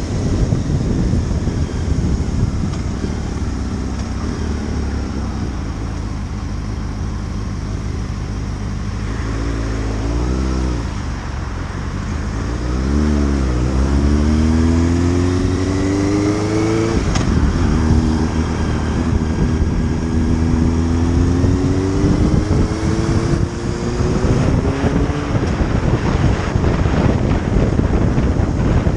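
Motorcycle engine accelerating under heavy wind noise on the microphone: the engine note climbs steadily, changes sharply at a gear shift a little past halfway, then climbs again in the next gear.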